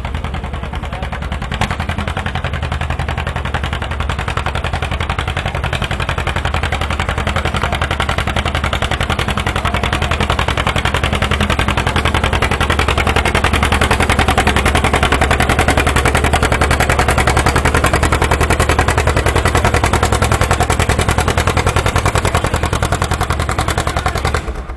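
Competition pulling tractor's unmuffled engine run at full power during a pull, a loud, rapid rattle of exhaust pulses. It grows louder over the first dozen seconds, holds, then drops off sharply near the end.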